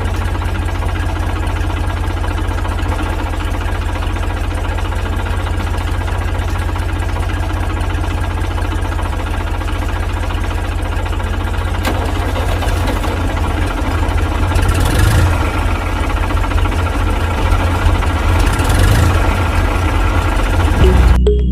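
A motor running steadily with a low, even hum. In the last third it turns rougher and a little louder, with two brief hissing surges.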